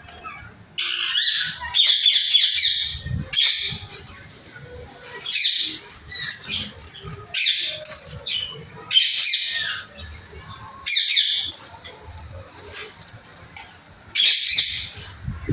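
Caged pet birds squawking loudly: harsh calls in bursts every second or two, some falling in pitch.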